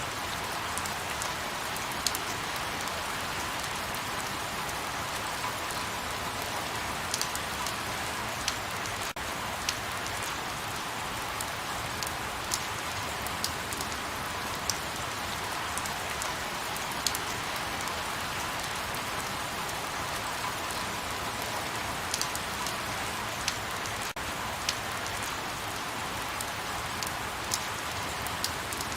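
Light rain falling steadily, an even hiss with scattered louder drops ticking every second or so.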